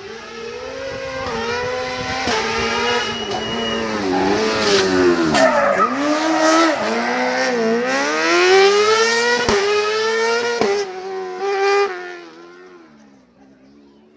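Rally car engine revving hard and passing, its pitch repeatedly climbing and falling as the driver accelerates, lifts off and changes gear, with two sharp bangs from the exhaust near the end before it fades away.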